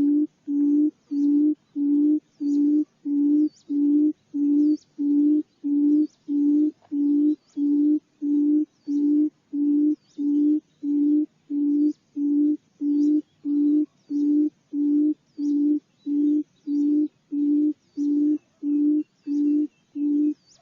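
Barred buttonquail giving its booming call: a long, evenly spaced series of low hoots, about one and a half a second, with faint high ticks behind.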